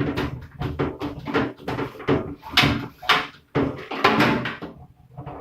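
Plastic fridge crisper drawer being worked out of the fridge, a quick run of knocks and rattles as it bumps and scrapes against the shelf and frame.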